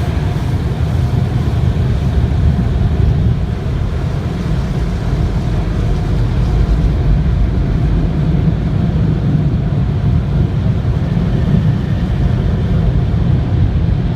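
Car wash machinery running: a loud, steady, deep rumble.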